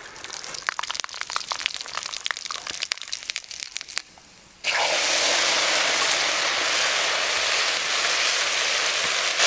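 Sharp crackling and popping for about four seconds, then after a brief pause a loud, steady sizzle starts suddenly: food frying in hot oil.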